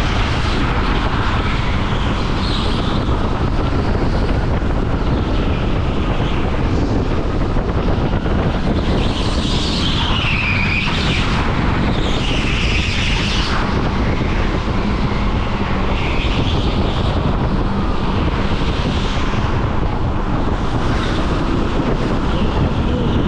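Go-kart running at racing speed, recorded onboard, with wind buffeting the microphone over a steady rumble. High whines rise and fall several times, most strongly around the middle.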